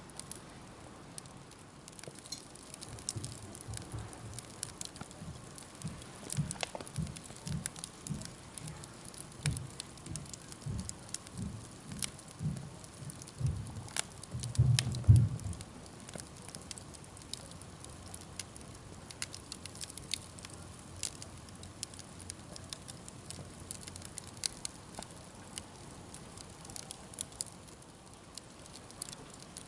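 Wood campfire crackling, with sharp pops scattered throughout. Low thuds come and go through the first half, the loudest about halfway through, then only the crackling remains.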